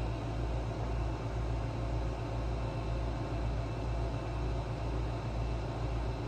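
Steady low mechanical hum with an even, slow pulsing in the bass, constant throughout.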